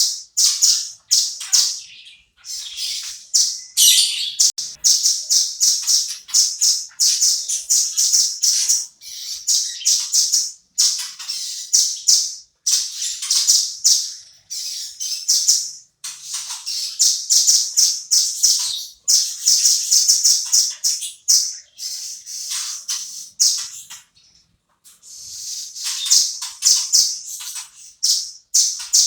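Velvet-fronted nuthatch calling in fast runs of sharp, high chips. The runs last a few seconds each, with brief pauses between them.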